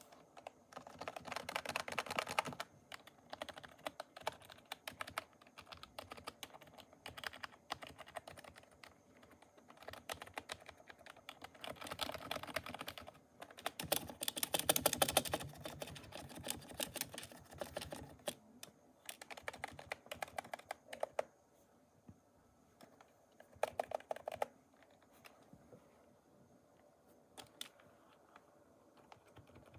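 Typing on a TS91 mechanical keyboard: rapid key clacks in bursts with short pauses, the densest and loudest run about halfway through, and only scattered keystrokes near the end.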